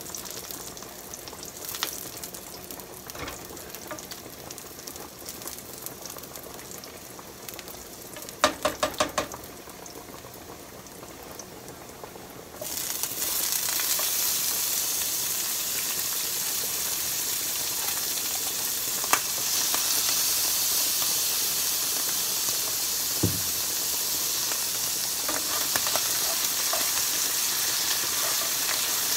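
Beef strips and onion frying in a skillet while a plastic spoon stirs, with a quick run of about five taps a little past eight seconds in. About thirteen seconds in, canned mixed vegetables go into the hot pan and the sizzle turns suddenly much louder, staying loud as they are stirred.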